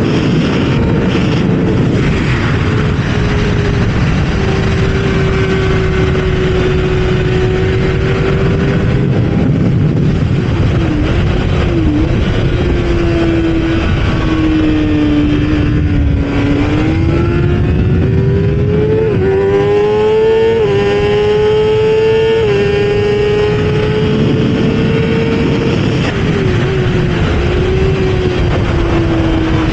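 Kawasaki ZX-6R's inline-four engine at full lap pace, its note rising and falling with the throttle through the corners. About two-thirds through it climbs in a series of quick upshifts, each climb cut by a sudden drop in pitch. Heavy wind rush runs underneath.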